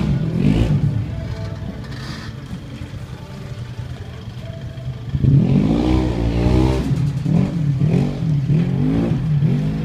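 Isuzu MU-X's engine running steadily, a low hum, while the vehicle is held on the steep ramp. About five seconds in, a voice starts talking over it.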